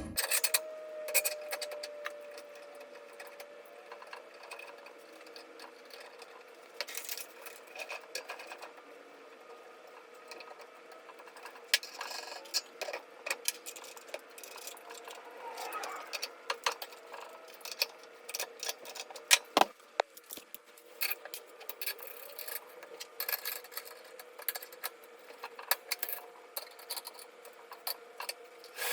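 Scattered clicks and clinks of small metal parts and tools being handled, over a faint steady hum.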